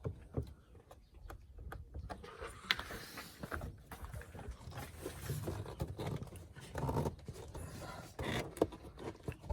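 Hands working the plastic snap clips of a 2013 Volkswagen Jetta 2.5's air filter housing cover: scattered clicks and knocks with plastic rubbing and handling noise as the cover is eased free.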